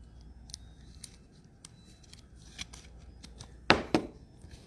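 A trading card sliding slowly into a plastic card holder: faint scraping and light ticks, then two short, louder rustles near the end.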